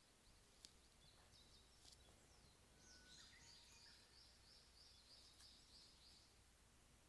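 Faint birdsong of a Japanese bush warbler (uguisu): a short held whistle, then a rapid train of high notes lasting about three seconds. A couple of faint ticks are also heard.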